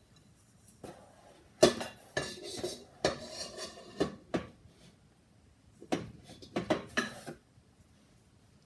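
Hard objects clattering and knocking, handled in two bursts of clinks and knocks with a pause between.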